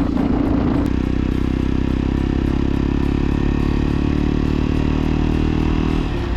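Motorcycle engine running at a steady pitch while riding, its note changing near the end.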